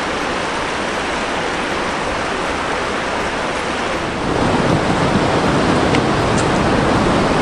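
Steady rushing of glacial meltwater, getting louder about four seconds in.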